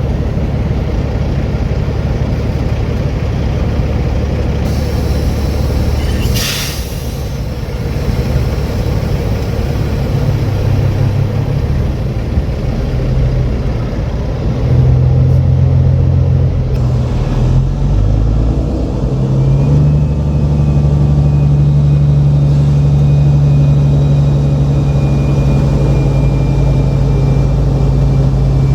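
Semi truck's diesel engine running at low revs, a steady low rumble, with a short burst of air hiss about six seconds in. The engine note grows louder about fifteen seconds in and again about nineteen seconds in.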